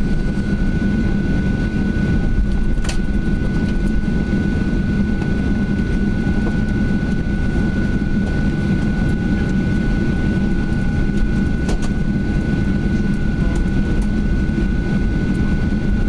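Steady cabin noise inside a Boeing 737-800 taxiing after landing: a low rumble from the engines and cabin air, with a thin steady whine above it and a couple of faint clicks.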